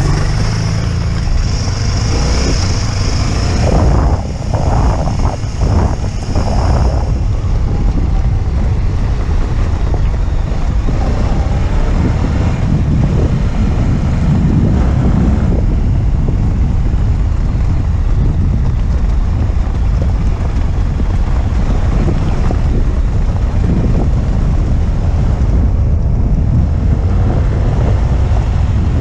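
Wind buffeting the microphone of an action camera on a moving motorcycle, a heavy low rumble with the engine running underneath.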